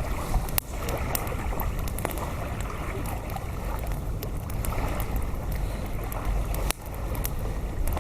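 Strong wind buffeting the microphone: a steady low rumble, with a few faint clicks scattered through it.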